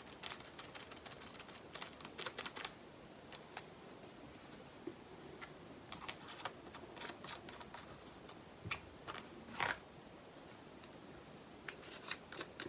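Small plastic resin diamond-painting drills and their containers being handled: scattered light clicks and rattling in a few short clusters.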